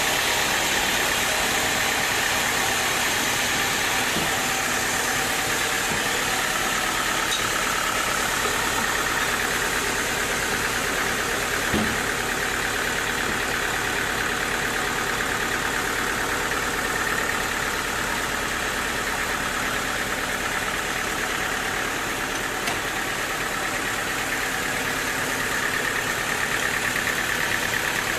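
Sawmill machinery running steadily with a continuous engine-like drone and a hiss reaching high up, with one short knock about twelve seconds in.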